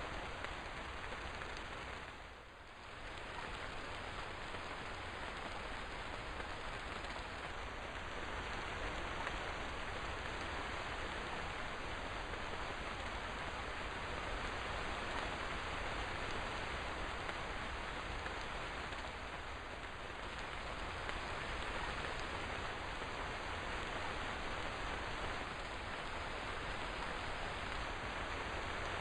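Steady rain falling, a dense even hiss of drops, briefly dipping in loudness about two and a half seconds in.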